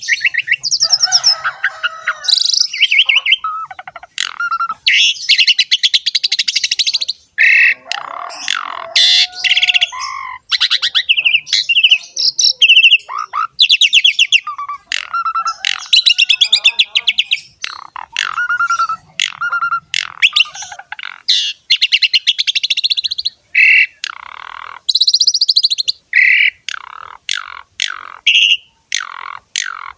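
Pied starling (jalak suren) singing continuously at full volume: a varied run of rapid chattering trills, clear whistles and rougher notes, one phrase after another with only short breaks.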